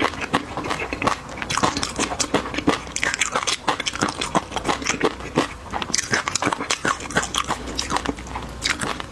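A person chewing a mouthful with the mouth closed, close to a lapel microphone: a steady run of wet mouth clicks and smacks, several a second.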